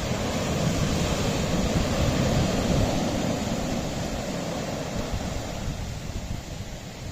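Sea surf washing against a rocky shore: a wave surges in over the first few seconds and then ebbs away, with a low rumble of wind on the microphone underneath.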